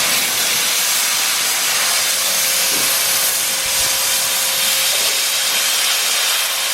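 A power cutting tool runs steadily with a loud hiss as it cuts a notch into a steel exhaust header for the temperature-sensor plug.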